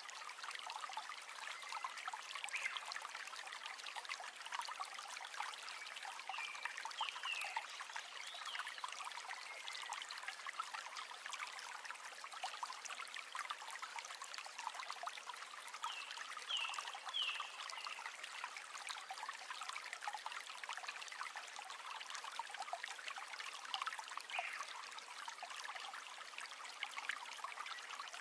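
River water flowing with a steady babbling trickle, and a few short higher-pitched chirp-like sounds about a quarter, halfway and most of the way through.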